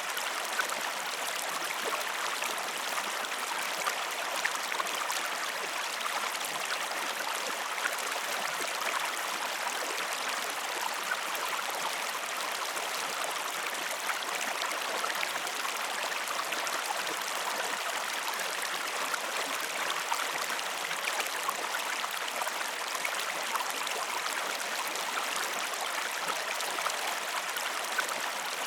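Steady rush of flowing stream water, with many small drips and trickles scattered through it and no change throughout.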